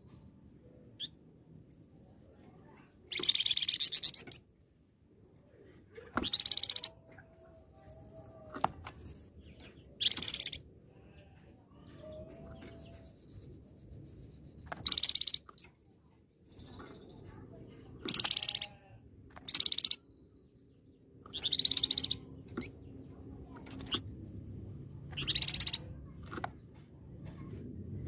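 Caged flamboyan songbird singing in short, loud, high-pitched trilled bursts, about eight of them each under a second long, a few seconds apart: the punchy 'tembakan' phrases of a bird in full song (gacor).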